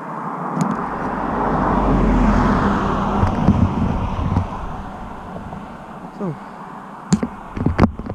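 A road vehicle passing by, swelling to its loudest about two seconds in and then fading away, over a low rumble; a few sharp knocks near the end.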